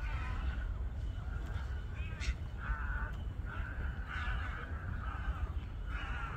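Birds flying overhead giving short, harsh calls, about four or five in quick succession over the latter half, over a steady low rumble.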